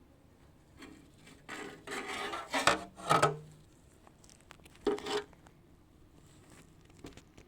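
Metal engine parts being handled: a stretch of scraping, then sharp metallic clanks with a short ring, the loudest about three seconds in and another near five seconds.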